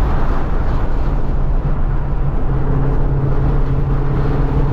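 A 2014 Mustang GT's 5.0-litre V8 engine and exhaust droning at a steady cruise, with tyre and road rumble underneath. The engine note holds one steady pitch, settling in about a second in.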